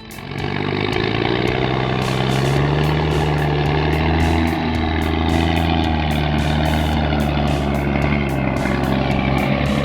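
Heavy truck's diesel engine pulling a heavy load uphill: a loud, steady low drone that starts suddenly and holds its pitch.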